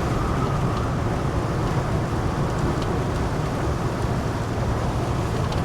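Inside a semi-truck cab at road speed: the steady drone of the engine and tyres, with heavy rain on the cab.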